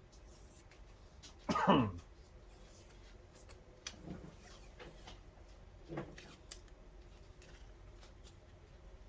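A short vocal sound from a person, falling in pitch, about a second and a half in, followed by two fainter ones around four and six seconds, with small clicks in between.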